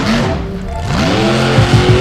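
Truck engine revving hard: it lets off and dips about half a second in, then climbs steeply and holds at high revs.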